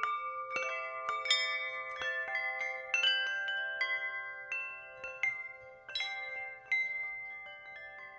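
Wind chimes ringing: about a dozen irregular strikes whose clear tones hold and overlap, slowly fading toward the end.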